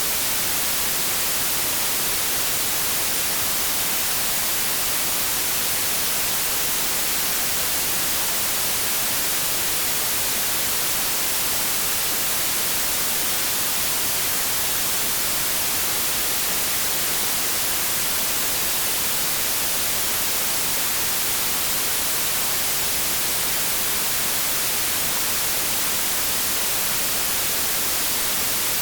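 Steady synthetic white noise: a constant, even hiss that is strongest in the high end and does not change.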